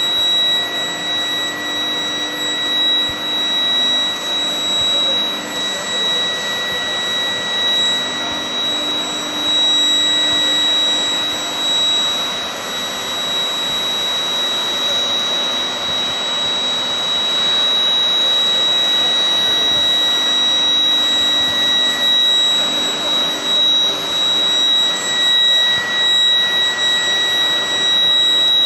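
Induction heating and hot rolling line running steadily: a constant industrial noise with a steady high-pitched whine held through it.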